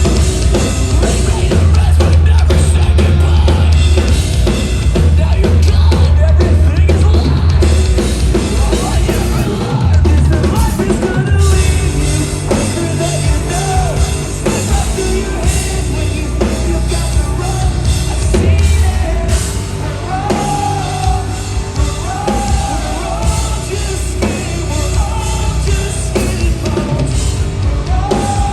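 Post-hardcore band playing live and loud: heavy drums and bass with distorted guitars, with a singer coming in about twelve seconds in.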